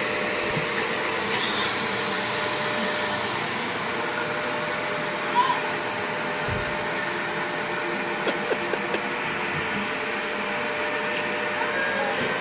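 Vacuum cleaner motor running steadily, a continuous whooshing noise with a constant hum. A few brief short sounds come through over it around the middle.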